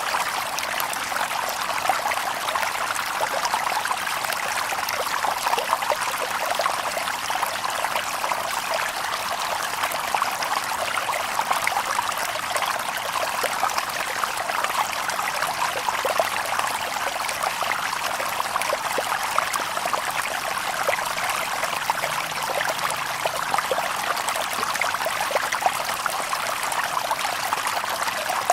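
Shallow stream babbling and trickling over stones, a steady run of water with many small splashes and gurgles.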